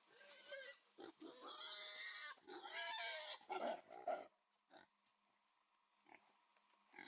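A pig squealing: three long, high squeals, followed by a few short, lower grunts about four seconds in.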